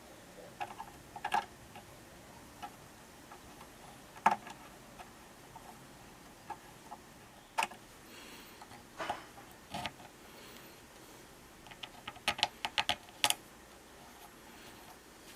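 Scattered light clicks and taps at uneven intervals, with a quick run of about eight clicks near the end.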